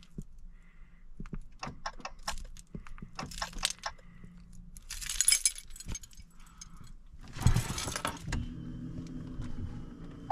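Keys jangling and clicking in the car's cabin, then the 2021 Dodge Challenger SXT's 3.6-litre V6 starting with a short loud burst about seven and a half seconds in and settling into a steady idle.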